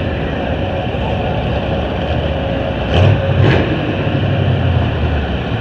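Demolition derby car engine running loudly nearby, with a low rumble and two short surges about three seconds in.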